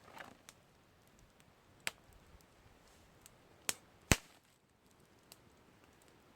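Campfire crackling: burning wood gives scattered sharp pops and small snaps over a faint hiss. The loudest pop comes about four seconds in.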